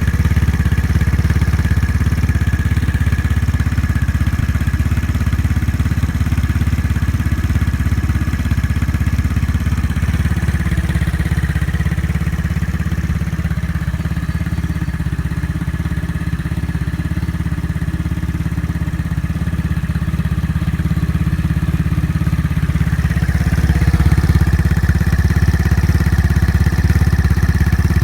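Third-generation Yamaha Cygnus X scooter's single-cylinder four-stroke engine running through a HOTLAP type666 spec156 aftermarket muffler, idling steadily. It gets a little quieter in the middle and a little louder again near the end.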